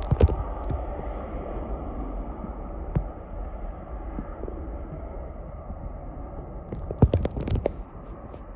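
Boeing 787-8 Dreamliner's jet engines at takeoff thrust, a steady rumbling roar. A few short knocks break in, with a cluster about seven seconds in.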